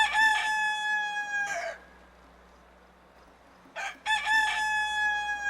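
Rooster crowing twice: each crow a short broken opening followed by one long held note that breaks off at the end, the second starting about four seconds in.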